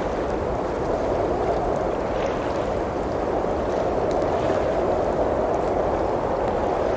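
Blizzard wind blowing steadily as a dense, even rush, with a few faint crackles from a wood fire.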